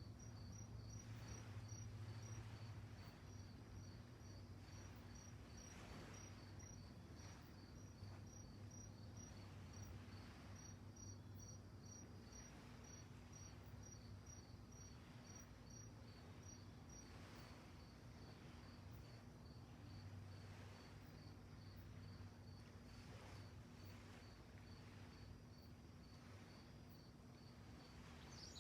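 Crickets chirping faintly: two at different pitches, each giving about two even chirps a second. The higher one stops about two-thirds of the way through. A low steady hum runs underneath.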